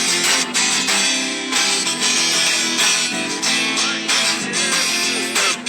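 Acoustic guitar strummed in a steady rhythm, about two strums a second: the instrumental break between choruses of a song.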